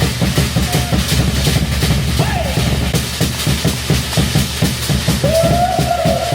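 Live show music driven by fast, steady drumming. A held note or call comes in about five seconds in.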